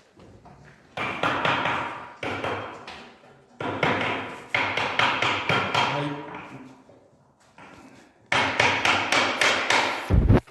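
Hammer striking metal during tractor repair: three runs of rapid blows, about four a second, each hit ringing briefly, with short pauses between the runs.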